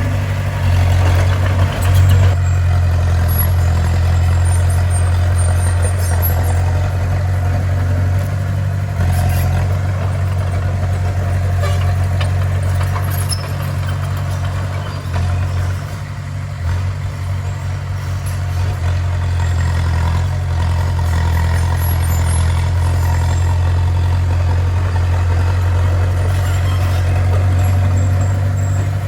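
Bulldozer's heavy diesel engine running steadily under work, with a low, even drone that eases off briefly about halfway through.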